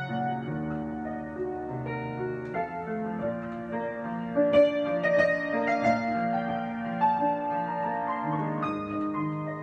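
Solo piano improvisation: slow held chords with single melody notes struck above them, growing louder in the middle.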